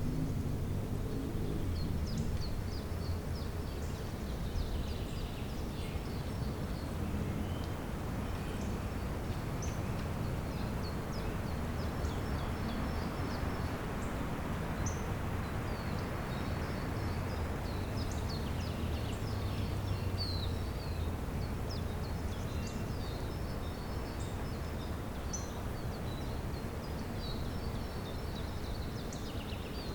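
Songbirds calling in many short, high chirps and twitters, over a steady low background rumble.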